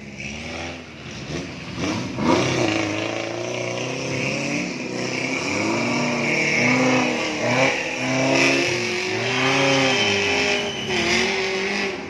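Off-road vehicle engine revving up and down over and over, its pitch rising and falling about once a second.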